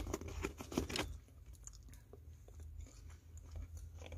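A person chewing a mouthful of soft taco close to the microphone: a cluster of quick clicks in the first second, then fainter, sparser ones.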